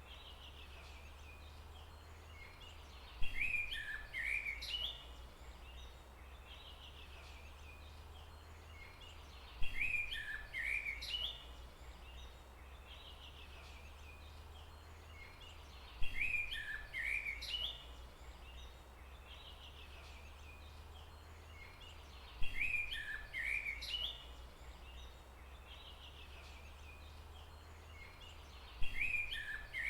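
A bird calling a short, high phrase of quick falling chirps about a second and a half long, repeated five times at even intervals of about six seconds. A steady low hum runs underneath.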